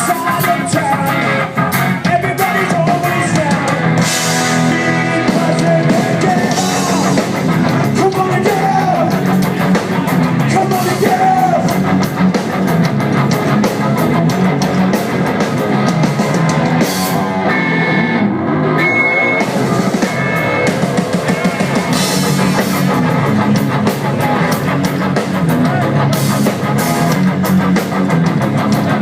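Rock band playing live: drum kit and electric guitar, with singing at times.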